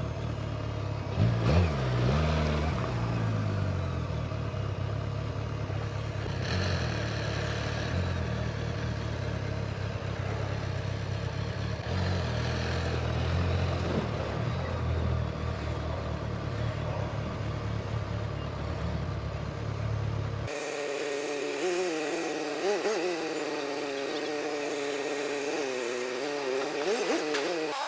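Motorcycle engine running as the bike is ridden, its pitch rising and falling with the throttle. About twenty seconds in the sound changes abruptly to a thinner, higher engine note that keeps revving up and down.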